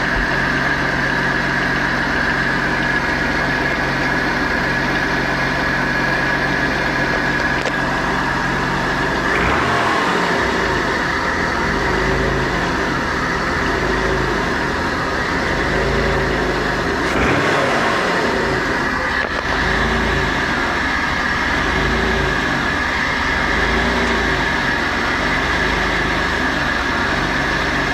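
Mitsubishi 6G72 12-valve 3.0 V6 running at idle after a cold start, with a ticking that the owner suspects is lifter tick. The engine note shifts about a third of the way through.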